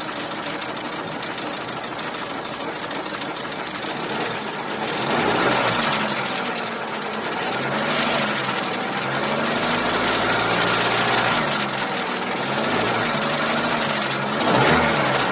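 Chevrolet Cruze 1.8-litre four-cylinder petrol engine running, with a ticking and squeaking noise. Its pitch shifts up and down from about five seconds in.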